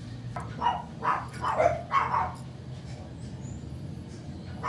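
A dog barking, four barks in quick succession in the first half, then quieter.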